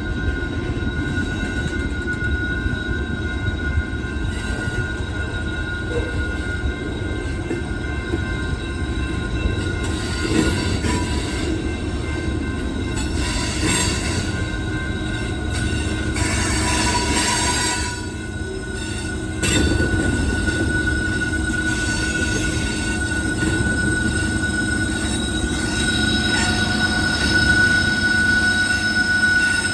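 Freight cars rolling past with a steady low rumble and a sustained high-pitched wheel squeal, which swells in the middle and again near the end.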